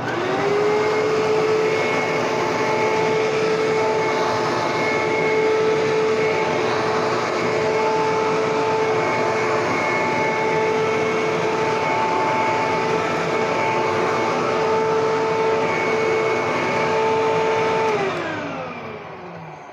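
Hoover vacuum cleaner's motor switched on, spinning up to a steady whine and running with a loud rush of airflow, then switched off near the end and winding down.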